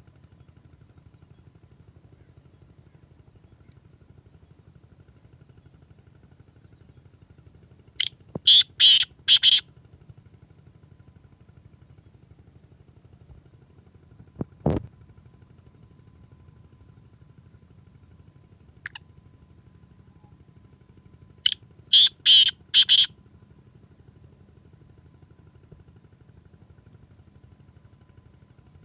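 Black francolin calling twice, each call a quick run of four or five harsh, loud notes lasting about a second and a half, the second call about thirteen seconds after the first. A single low thump falls between the calls, over a faint steady low hum.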